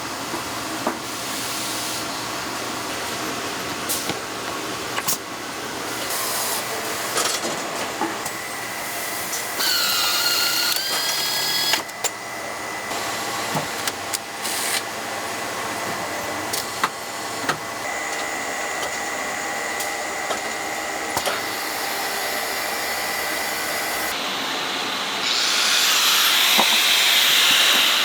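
Power-tool assembly line noise: a steady clatter of parts and tool clicks. About ten seconds in, a small electric motor whines up in pitch and runs for about two seconds. Near the end comes a louder hissing run with a high whine.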